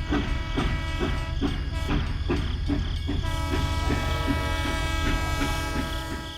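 A small electric motor running with a regular knock about twice a second. A steady whine joins about three seconds in.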